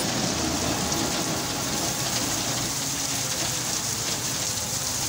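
Heavy monsoon rain pouring down steadily onto a wet street, a dense, even hiss of downpour.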